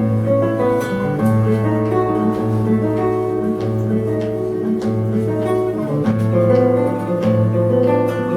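Contreras studio model M-1 guitar played solo, with plucked upper notes over a low bass note that repeats about once a second.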